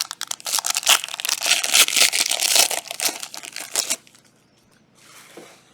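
Plastic trading-card pack wrapper being torn open and crinkled in the hands, a dense crackle that stops abruptly about four seconds in, followed by a short soft rustle of the cards being handled.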